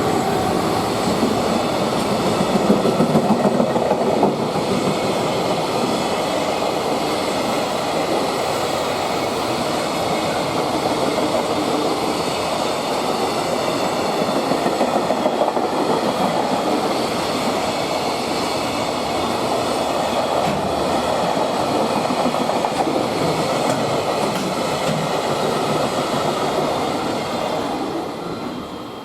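Freight train running past, its wagons' wheels clicking over the rail joints in a steady rumble that fades away near the end.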